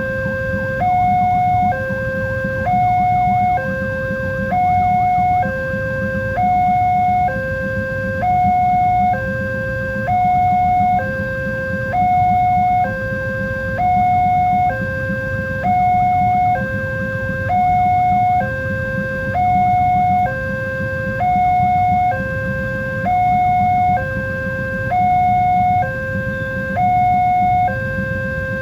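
Electronic warning alarm of a railway level crossing sounding: two tones, low and high, alternating evenly about once a second, with a steady low rumble underneath.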